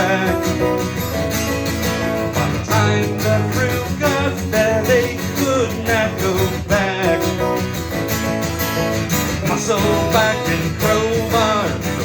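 Live acoustic rock: a strummed acoustic guitar with a bass line and a melody that bends up and down in pitch over it, with no words sung.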